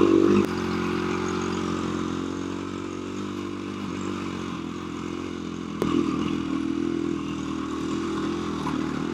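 KTM 350 EXC-F single-cylinder four-stroke dirt bike engine running at low revs on a rough trail. The throttle drops off about half a second in and the engine slowly loses pitch, then a sharp knock and a pick-up in revs come just before the six-second mark.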